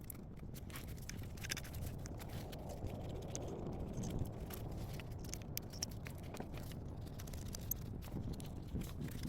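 Scattered light metal clicks and scrapes of hand work on the exhaust parts, over a steady low rumble.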